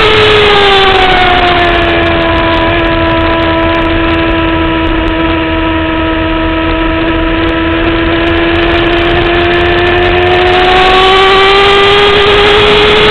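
2009 Kawasaki ZX-6R inline-four sport bike engine at speed on track: the note drops in the first second or so, holds steady at high revs for several seconds, then climbs again near the end as the rider gets back on the throttle.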